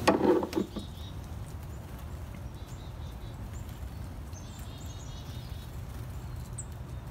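Small birds chirping faintly around hanging bird feeders: a scatter of short, high calls over a steady low background rumble. A brief loud bump or rustle at the very start is the loudest sound.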